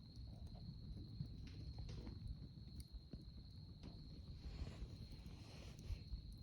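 Campfire burning with sparse small crackles and pops, over a steady high-pitched tone and a low rumble.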